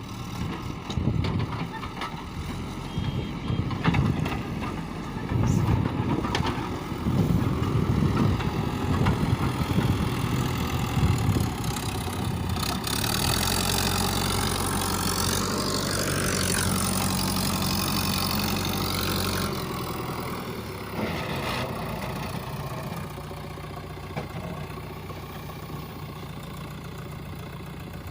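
Diesel engine of heavy loading machinery running unevenly in the first half, then held at a steady higher speed for several seconds before dropping back to a lower idle.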